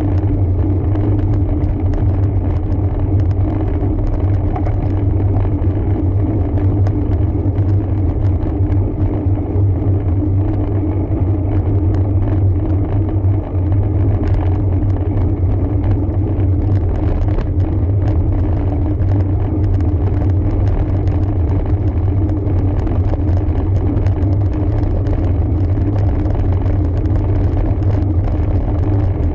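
Steady low rumble of wind and road noise from riding a road bike, unbroken throughout, with a brief dip about 13 seconds in.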